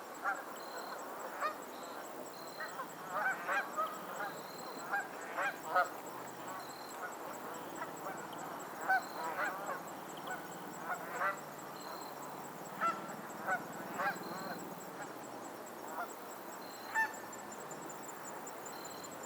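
A flock of geese honking on a lake: many short calls overlapping in the first few seconds, then scattered single honks that thin out toward the end, over a steady outdoor background.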